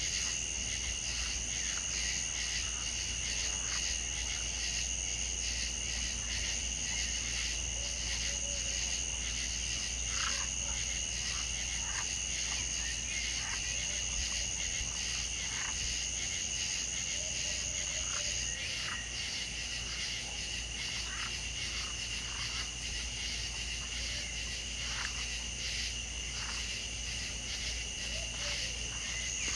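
A chorus of insects and frogs: steady high-pitched insect trilling, one of the trills stopping about two-thirds of the way through, with short calls repeating every second or two over a low steady rumble.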